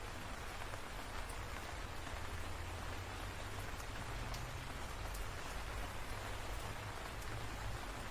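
Steady rain: a dense, even hiss with a few faint drop ticks, over a low steady rumble.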